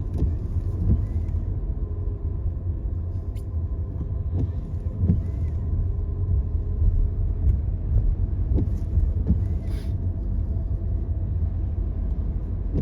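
Car on the move: steady low road and engine rumble, with a few faint clicks scattered through it.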